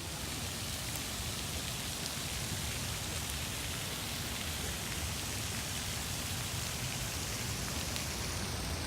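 Steady rushing hiss of flowing stream water.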